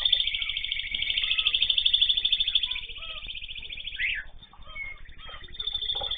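Caged pet birds calling: a long, rapid songbird trill lasting about three seconds, then scattered short chirps and a sharp rising call about four seconds in.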